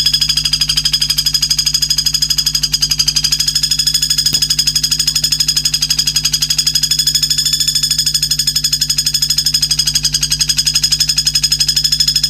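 High-pitched trill of fast, perfectly even pulses, held without a break: a recorded isian (fill-in song) used for training white-rumped shamas. A low steady hum sits beneath it.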